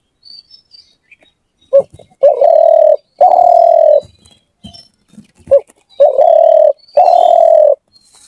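A dove cooing: twice a phrase of one short note followed by two long, low coos. Faint chirps of small birds in the gaps.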